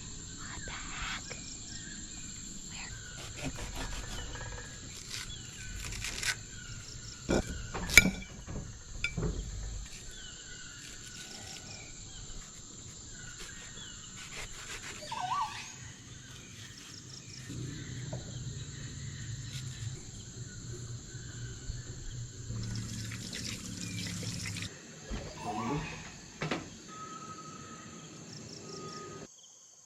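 Tropical rainforest ambience: a steady high-pitched insect chorus, with a few short bird chirps and scattered sharp clicks, the loudest about eight seconds in. The insect chorus cuts off just before the end.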